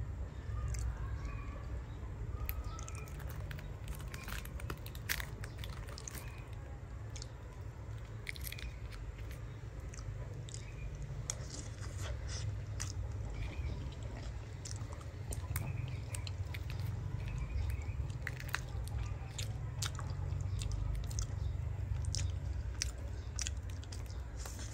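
Close-up chewing and biting of grilled cassava with coconut milk sauce: irregular crisp clicks, crunches and wet mouth sounds.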